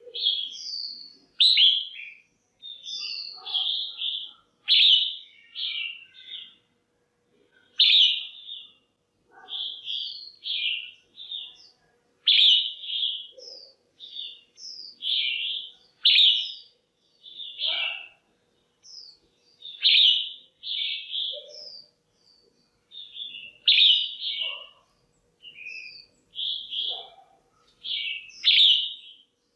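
Female red-whiskered bulbul calling: short, bright chirping phrases repeated about once a second with brief pauses between them. These are the calls used to rouse male bulbuls or to pair birds.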